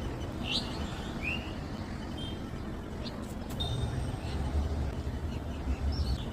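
A few short bird chirps, some sweeping quickly in pitch, scattered over a steady low rumble that grows louder past the middle.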